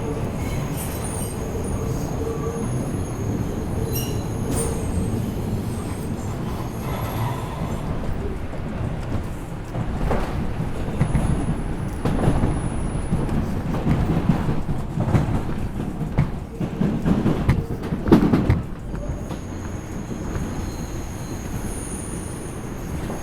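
R142 subway car running on the track, heard from inside the car: a steady low rumble of wheels on rail, with heavier clattering knocks over rail joints and track work from about ten seconds in until about eighteen seconds. Thin, high wheel squeals come and go.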